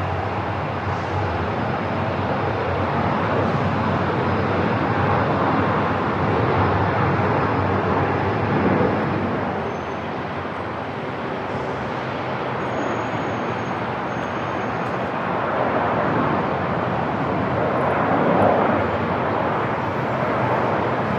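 Steady airport ambience: a continuous wash of rumbling noise that swells and eases slowly, with no distinct events.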